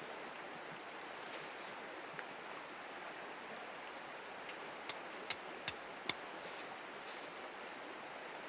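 A river flowing steadily, a constant rush of water. About halfway through, four sharp clicks come in quick succession, about 0.4 s apart.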